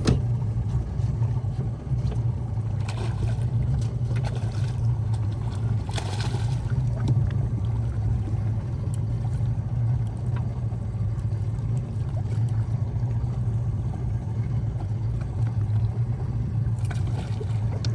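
Boat engine running steadily, a constant low drone with wind and water noise over it.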